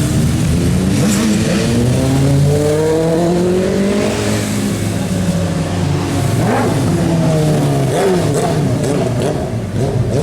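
Sport motorcycle engines revving and accelerating, the pitch climbing and dropping several times, with a long rise in the first few seconds and further swells around the middle and near the end.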